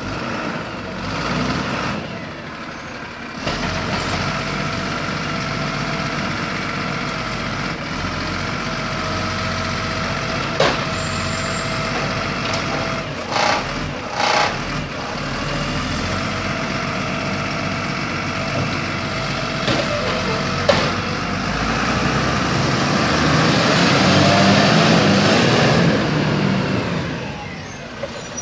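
Garbage truck running steadily, with a few short knocks around the middle. It grows louder for a few seconds near the end.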